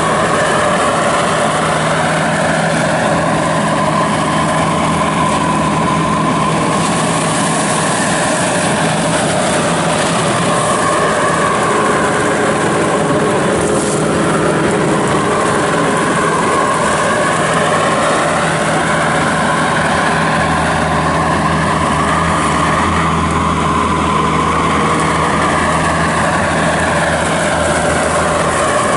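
Bobcat S740 skid steer loader's 74 hp turbo diesel engine running steadily. Through it comes a whine that slowly rises and falls in pitch several times.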